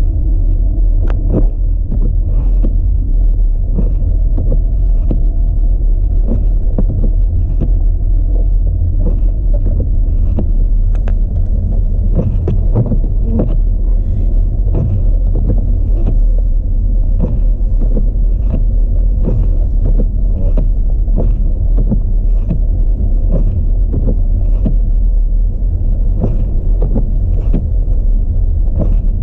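Audi A4 driving on a snowy road: a steady, heavy low rumble of road and wind noise, with many small irregular ticks over it.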